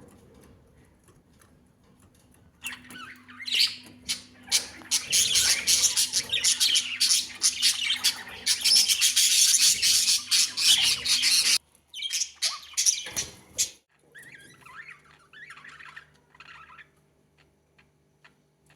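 Pet budgerigars squawking and chattering loudly together, starting about three seconds in and cutting off suddenly near the middle. Softer chirping follows a few seconds later.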